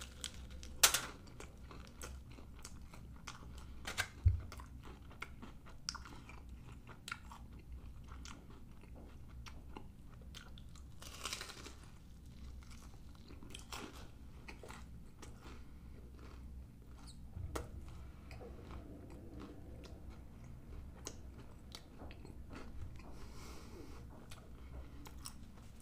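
A person biting into and chewing a Philly steak in a crisp wrap, with scattered faint crunches and mouth clicks. A sharp click comes about a second in and a low thump about four seconds in.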